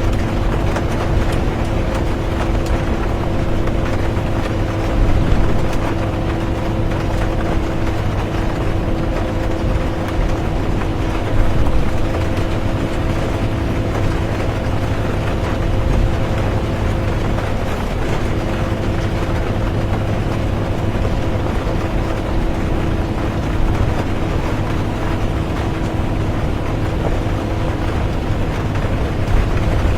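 Bus interior on the move: a steady low engine and road rumble with a constant drone, rain on the bus mixed in as an even hiss, and a couple of brief bumps from the ride.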